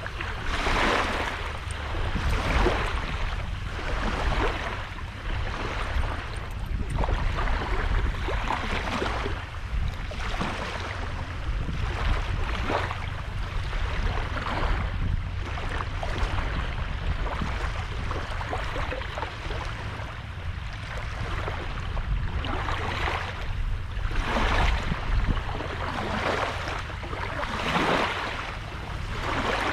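Sea waves breaking and washing onto a beach, surging every few seconds, with a steady low rumble of wind on the microphone underneath.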